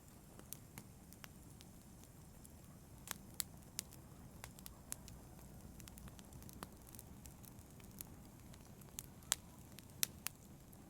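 Wood fire crackling: a low steady rush of burning with scattered sharp pops and snaps, a few of them coming in quick clusters.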